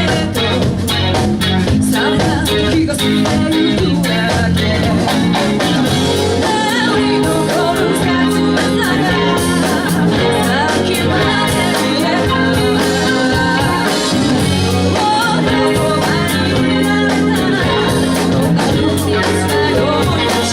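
A band playing a song: a sung lead vocal over guitar, a bass line and a steady drum beat, at a constant loud level.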